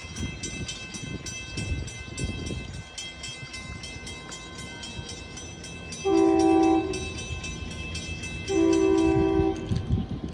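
SEPTA commuter train horn sounding two chord-like blasts, a short one about six seconds in and a longer one about two and a half seconds later, over the low rumble of the arriving train. A rapid, steady ringing of a grade-crossing bell runs underneath and fades near the end.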